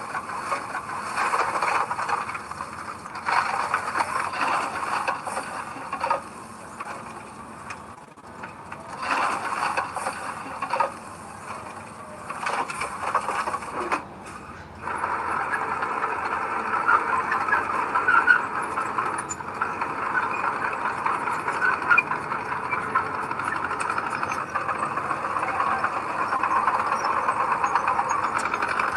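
Heavy earthmoving machinery at work: a diesel machine running with a noisy metallic din that comes and goes unevenly for about the first half, then carries on steadily.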